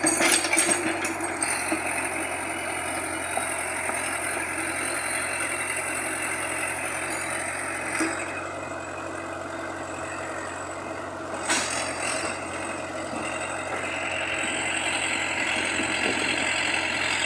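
Heavy machinery engine running steadily, with a few sharp knocks in the first second or so and single knocks about eight and eleven seconds in.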